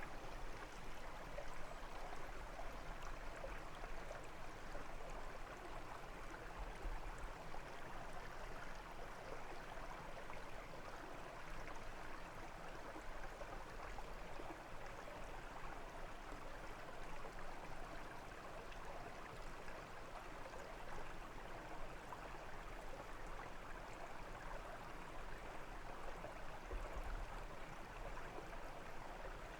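A brook flowing and burbling steadily over stones.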